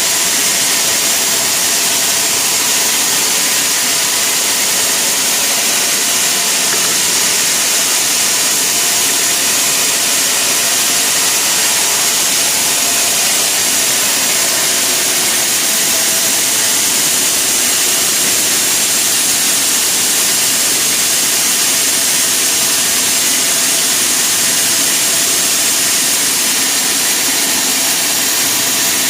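Sawmill machinery running steadily: a loud, even hiss with a faint whine underneath, unchanging throughout.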